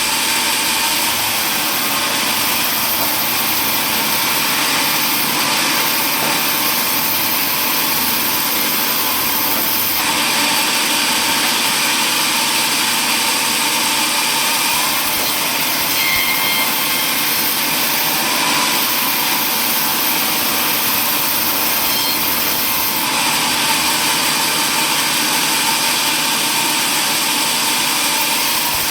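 Power saw running and cutting wood: a loud, steady machine noise with slight shifts in tone about a third of the way in and again later.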